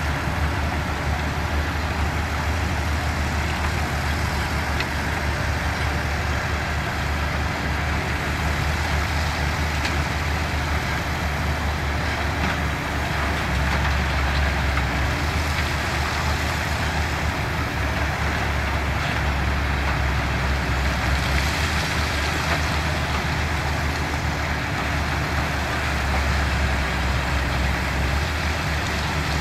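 Heavy diesel construction machinery running steadily: a deep, even engine rumble with no breaks, from the bulldozers and dump trucks working rock fill.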